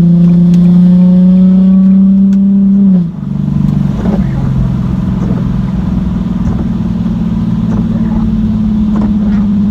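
Nissan 370Z's 3.7-litre V6 with a muffler delete, under acceleration: a loud exhaust note rising slowly in pitch, which falls sharply about three seconds in. It then settles into a steady drone that creeps up in pitch.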